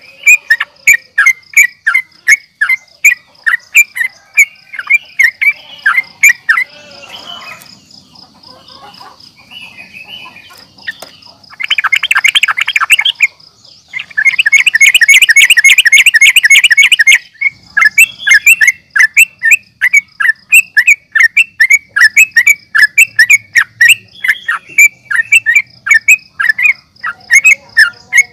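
Yellow-vented bulbul (trucukan) calling: short sharp chirps repeated a few times a second, broken twice near the middle by bursts of loud, rapid chattering trills. A thin steady high whine sits underneath.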